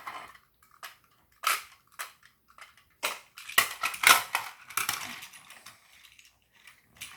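Plastic Plarail toy train cars clicking and knocking as they are handled and coupled together by hand: scattered sharp clicks, busiest in the middle.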